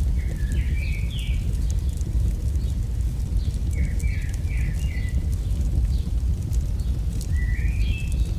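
Campfire crackling, with a steady low rumble underneath and sparse sharp crackles. A bird sings three short phrases of quick, rising notes: about half a second in, around four seconds, and near the end.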